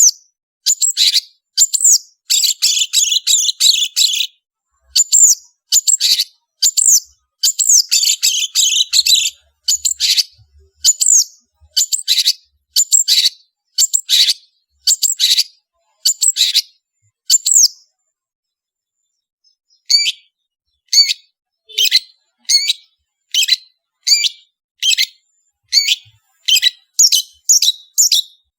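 Long-tailed shrike singing: sharp high call phrases repeated about once a second, some run into a rapid chattering trill. Past the middle it stops for about two seconds, then resumes with shorter clipped notes that come faster toward the end.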